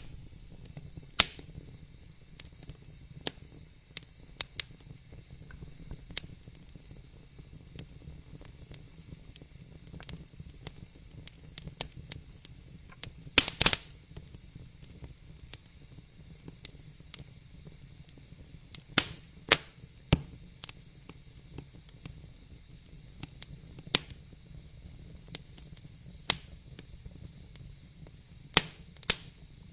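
Wood fire crackling in a fireplace: irregular sharp pops and snaps over a steady low rumble of the flames, with a cluster of louder pops about halfway through.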